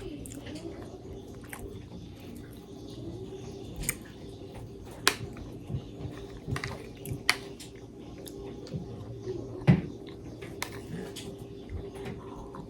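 A person chewing food close to the microphone, with wet mouth sounds and several sharp clicks, the loudest about five seconds in and near ten seconds in. A faint steady hum runs underneath.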